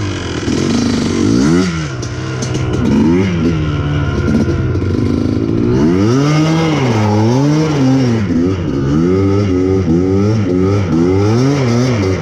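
Yamaha Blaster quad's single-cylinder two-stroke engine revving up and down over and over while being ridden in short drifts, the revs swinging more quickly and evenly in the second half.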